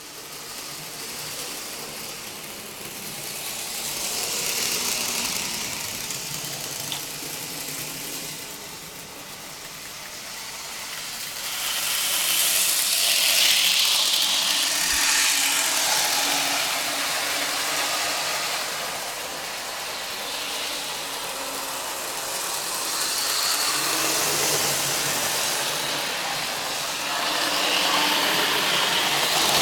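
N scale model train running on its track: the whirr of its small electric motor and the rattle of wheels on rail, swelling and fading several times as the train comes nearer and goes away on the layout.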